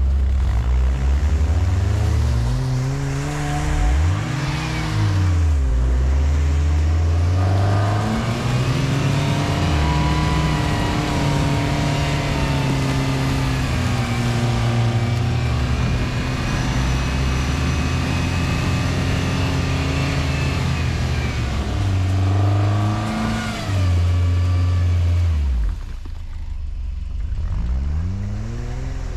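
Quad bike (ATV) engines running and revving, their pitch rising and falling again and again as the throttle is opened and eased off, with a short drop in level about three-quarters of the way through.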